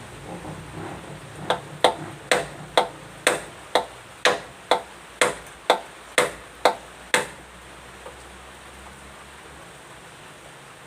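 A hammer driving a nail into wood: about thirteen sharp strikes at a steady two a second, each with a short ring, then they stop.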